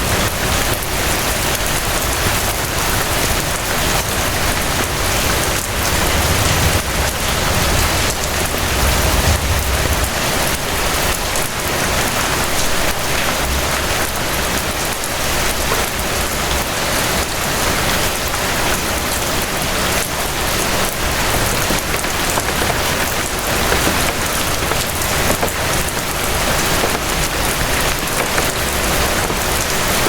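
Steady rain falling, a dense continuous patter of drops hitting a surface. A low rumble swells briefly under it about seven to ten seconds in.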